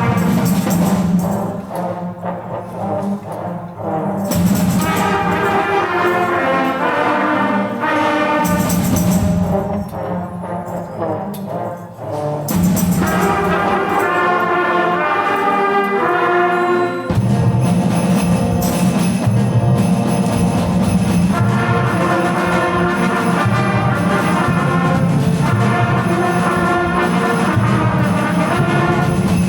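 A student instrumental ensemble playing holiday music, with brass prominent. It moves through quieter phrases and then fuller, sustained playing in the second half.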